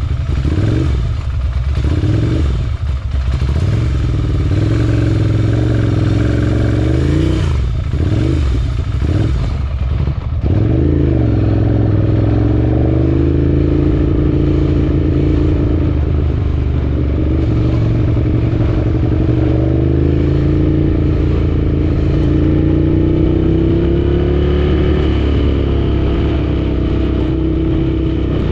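Motorcycle engines running continuously, their pitch rising and falling, quickly at first and then in slow, drawn-out changes.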